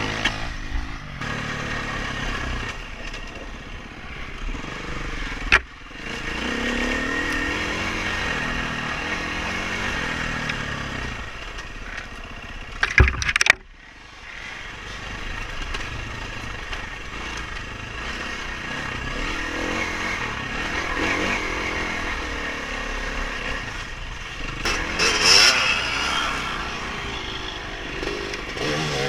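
Dirt bike engine revving up and down as it rides over rough trail, with a sharp knock about five and a half seconds in and a loud clatter of knocks around thirteen seconds, after which the engine briefly goes quieter.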